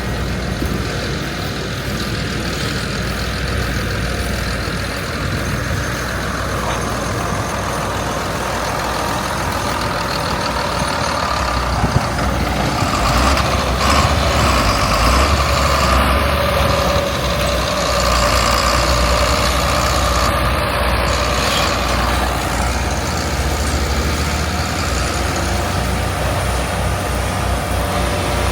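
Heavy diesel engine of a large farm tractor running steadily under load, swelling a little near the middle.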